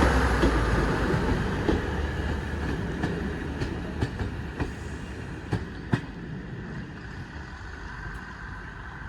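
A train rolling past and fading away, its wheels clicking over rail joints.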